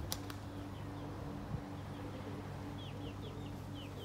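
Faint chirps from a small bird, short falling notes, a few about a second in and a quick run of several near the end, over a steady low hum. A couple of clicks right at the start.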